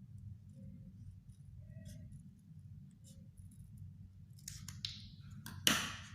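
Cardboard from an empty cigarette pack being handled and cut with scissors: faint clicks, then rustling and one sharp loud snip near the end, over a steady low hum.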